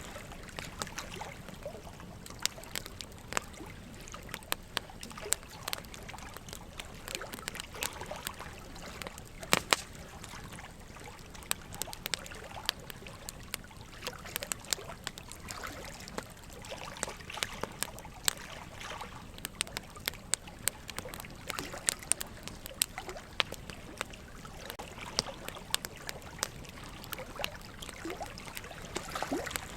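Wood fire crackling, with irregular sharp pops and snaps, several a second, over a steady trickle of running water. The loudest pops come about nine to ten seconds in.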